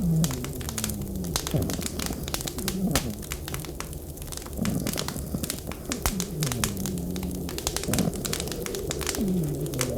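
Wood fire crackling with dense, irregular pops, under a blizzard wind howling in low, falling moans that come and go every second or two.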